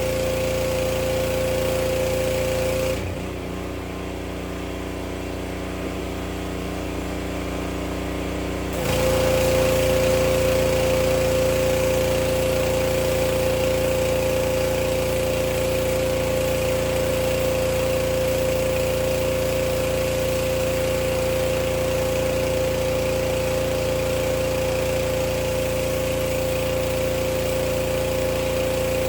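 Small gas engine of a pressure washer running steadily, with the hiss of the spray over it. About three seconds in, the spray hiss stops and the engine runs more quietly for about six seconds, then the spray starts again.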